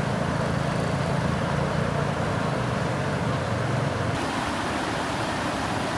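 Floodwater rushing, with a steady low engine hum over it that drops away about four seconds in.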